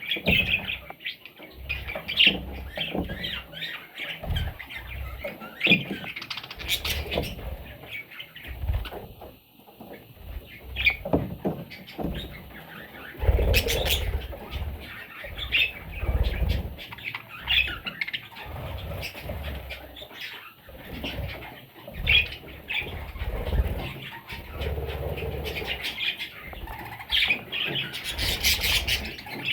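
Baby budgerigars chirping and squawking in short, repeated calls, with frequent low rustling bursts.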